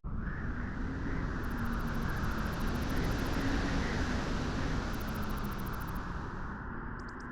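Steady beach wind blowing, a deep rushing rumble that swells a little and eases off again.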